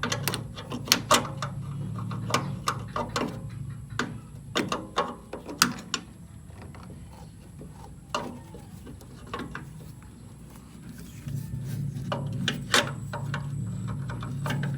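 Metal tools and parts clinking and knocking in irregular taps as screws are worked on a car, over a steady low hum that fades out about four seconds in and comes back about eleven seconds in.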